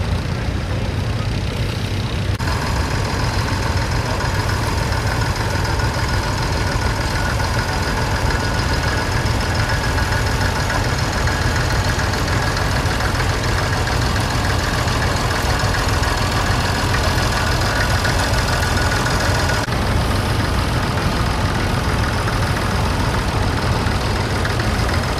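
Vintage tractor engine running steadily. A higher whine joins about two seconds in and drops away near the end.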